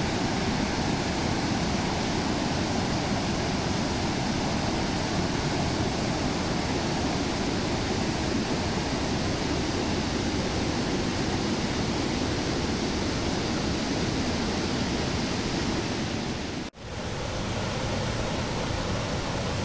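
Steady roar of rushing water from a waterfall or fast river, an even wash of noise with no pattern. It cuts out abruptly for an instant about seventeen seconds in, then comes back the same.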